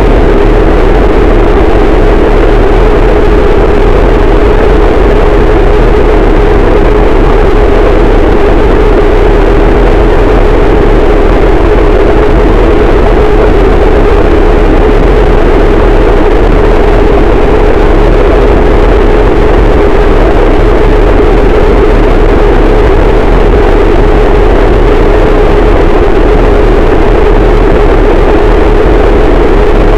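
Harsh noise wall: a dense, static wall of distorted noise at full loudness that does not change, heaviest in a steady low-mid drone band with a heavy low rumble beneath.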